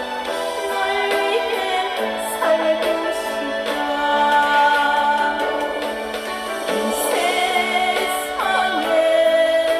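Korean trot ballad: a woman singing over an instrumental backing track.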